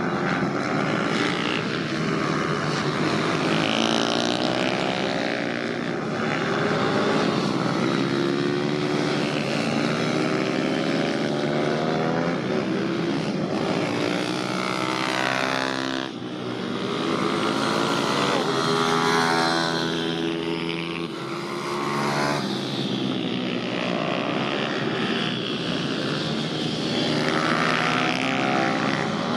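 Pit bike's small single-cylinder engine revving around a track, its pitch rising and falling repeatedly as the rider accelerates and backs off, with an abrupt jump about halfway through.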